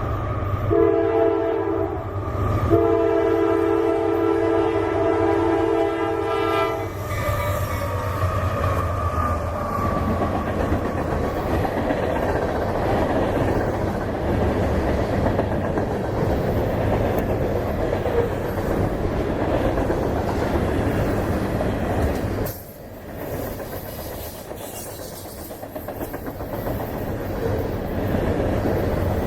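Locomotive air horn sounding in several blasts with short gaps, the last and longest ending about seven seconds in. Then a freight train rolls past with steady wheel-and-rail rumble and clatter, which drops off briefly about two-thirds of the way through before coming back.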